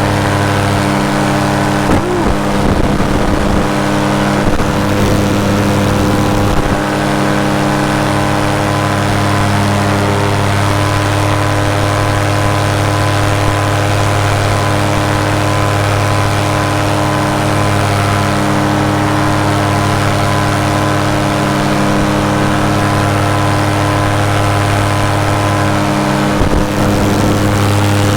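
Paramotor engine and propeller running steadily at cruise power in flight, holding an even pitch, with some gusty wind noise on the microphone in the first few seconds.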